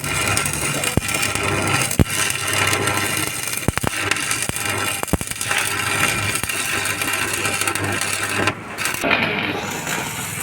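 Electric arc welding on a steel tractor trolley: a steady crackling hiss over a low mains hum, with a few sharp clicks, and a brief break in the arc near the end.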